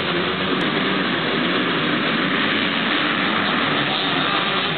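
Motocross dirt-bike engines running together as a steady blended drone, with no single rise or fall in pitch.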